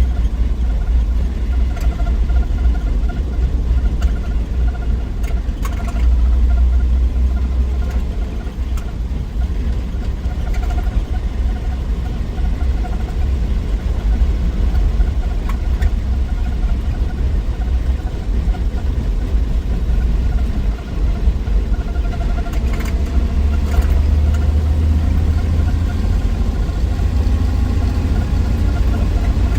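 1963 Willys Wagon's 230 Tornado overhead-cam straight-six running on the road, a steady low rumble of engine and road noise. It swells a little about six seconds in and again in the last third.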